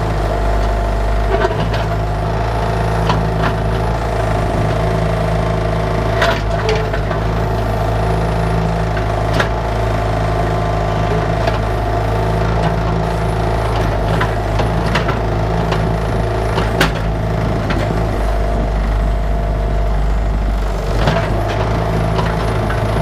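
Bobcat 331 mini excavator's diesel engine running at a steady speed, with occasional sharp knocks and rattles from the machine at work digging.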